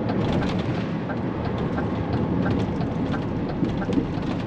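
Car transporter truck on the move, heard from inside the cab: a steady engine and road noise. A faint, regular ticking about twice a second comes from the turn indicator during a left turn.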